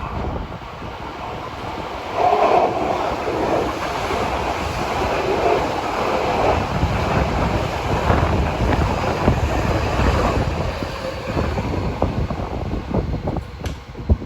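Hankyu electric train passing: a steady rush of wheels on rail. It swells about two seconds in and eases off near the end, with clicks toward the close and wind buffeting the microphone.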